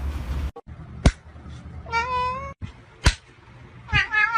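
Domestic cat meowing twice: one call about two seconds in and a longer, wavering one near the end. Two sharp clicks fall between and before the calls.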